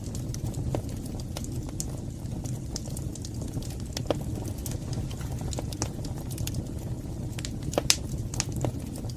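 Wood fire burning in a fireplace: a steady low rumble of flame with scattered sharp crackles and pops, the loudest pop near the end.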